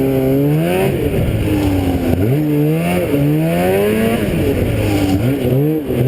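Engine of the vehicle carrying the camera, revving up and down as it is ridden, its pitch climbing and dropping several times.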